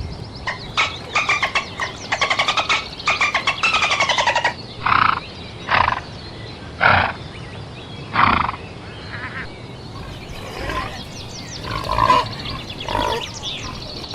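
Animal calls: a fast chattering run of rapid pulses for the first few seconds, then separate short calls about a second apart, softer and more varied near the end.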